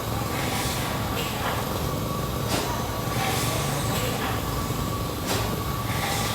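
Steam engine running slowly and steadily: a continuous hiss with a regular beat about every second and a half, and a steady whine.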